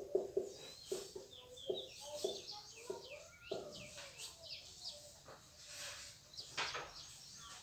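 Birds chirping in short repeated calls in the background, with short squeaks of a marker writing on a whiteboard during the first three seconds or so.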